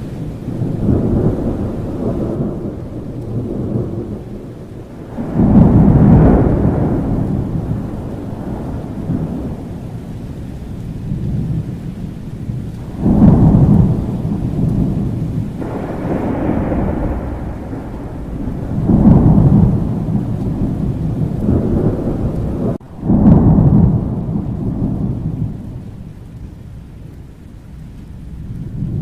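Thunderstorm: thunder rumbling over steady rain, with four or so loud rolls that start suddenly and die away over a few seconds each. The sound cuts out for a split second just before the last roll.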